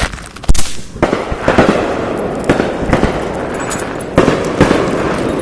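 Consumer fireworks going off: a sharp bang about half a second in, then steady crackling with repeated louder pops.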